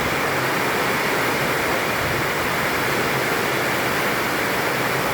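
Heavy rain falling, a steady dense hiss of water.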